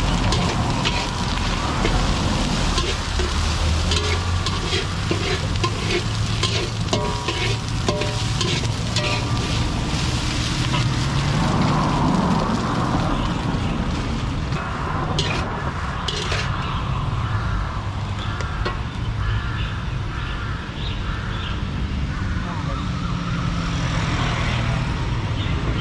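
Street-food stall ambience: food frying and sizzling in hot oil, with many sharp clicks and clatter, thickest in the first half, over a steady low rumble.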